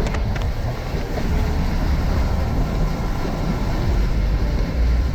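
Steady low rumble of a vehicle running, the camper van's engine and drivetrain.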